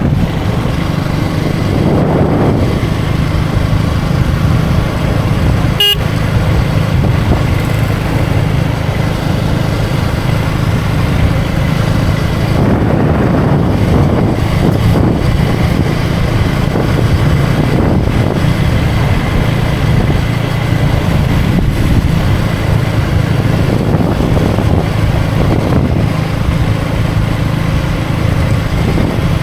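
KTM Duke 250 single-cylinder engine running steadily under way, with wind and road noise. A brief sharp sound cuts in about six seconds in.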